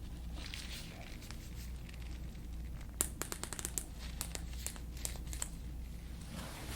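Crinkling with a quick run of sharp clicks, starting about three seconds in and lasting a couple of seconds, over a low steady hum.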